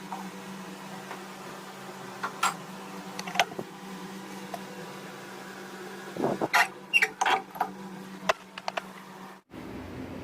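Scattered clicks and knocks of small parts being handled, with a busy cluster in the second half, over a steady low hum. The background changes abruptly near the end.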